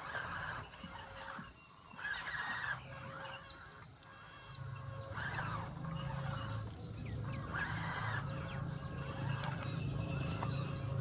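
Animal ambience: loud honking calls repeating every two to three seconds over faint bird chirps, with a low steady hum joining about four seconds in.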